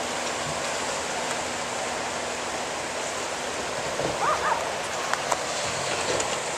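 Steady rush of tsunami surge water pouring back into the harbor. A few brief faint high cries come about four seconds in, and a couple of faint knocks follow.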